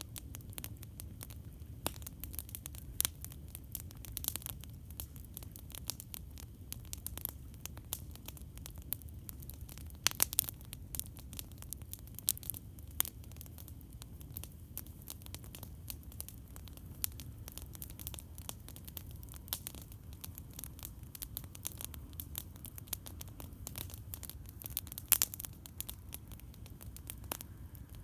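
Campfire crackling: irregular sharp pops and snaps, a few louder pops about ten seconds in and again near the end, over a steady low rumble.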